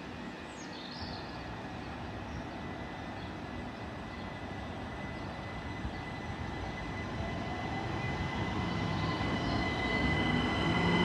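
Class 375 Electrostar electric multiple unit pulling out of the station, growing steadily louder as it gets under way, with a whine from its traction equipment that rises in pitch in the second half.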